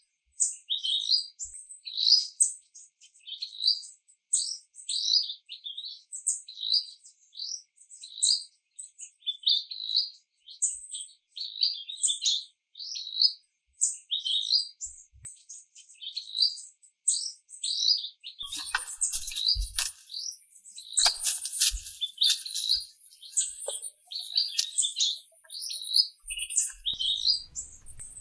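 A small bird chirping over and over, a quick string of short high chirps, two or three a second. About two-thirds of the way through, a high hiss comes in under it with a few short knocks and thuds.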